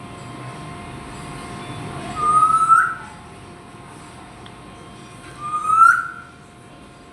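Parrot whistling: two rising whistles about three seconds apart, each ending in a quick upward flick.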